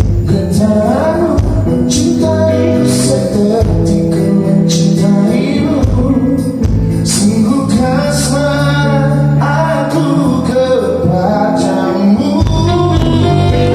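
A live band playing a song, with a singer's voice over bass, guitar and drums and regular cymbal hits.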